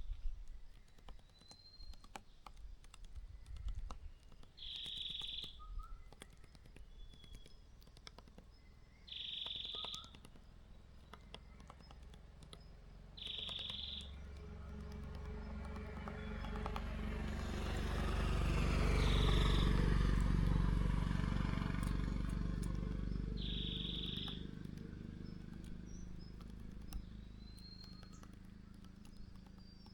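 Small birds chirping, with a short high call repeated about every four to five seconds and quick little chirps between. Midway a low rumble swells up over several seconds and fades away again.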